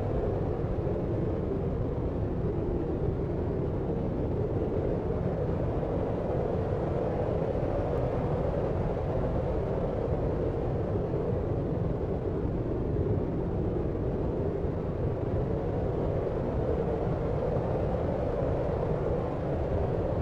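Steady deep sleep noise, a brown-noise style low rumbling hiss that stays even throughout, with most of its weight in the low and low-middle range and little treble.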